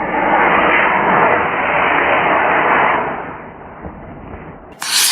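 Model rocket motor firing at lift-off: a loud rushing hiss that sets in right after the countdown, holds for about three seconds, then fades away as the rocket climbs. Near the end comes a brief, sharper burst of hiss.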